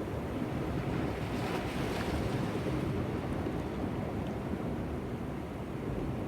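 Sea waves washing against rocks, swelling about a second and a half in, with wind buffeting the microphone.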